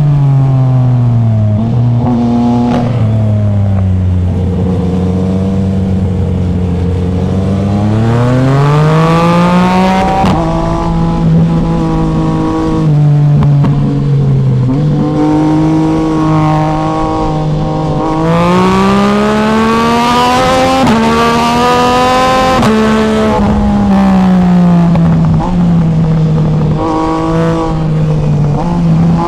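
Yamaha MT-09's three-cylinder engine under way on the street, its pitch rising as it revs up through the gears and falling when the throttle closes, over and over. There are long climbs about a third and two thirds of the way through.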